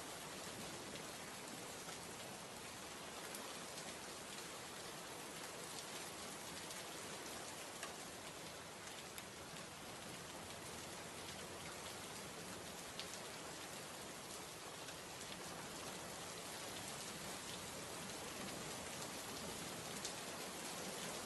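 Steady heavy rain: an even hiss of falling drops, with a few sharper drop ticks here and there.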